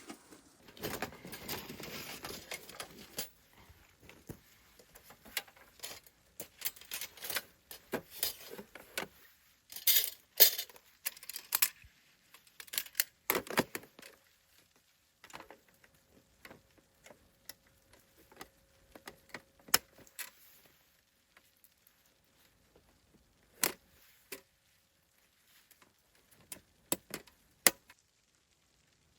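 Irregular clinks, clacks and jingles of small hard objects, metal among them, being handled, with the busiest clatter in the first half.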